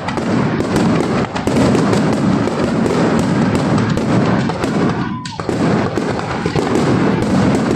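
Fireworks display: a dense, continuous barrage of bangs and crackling, with a short whistle about five seconds in.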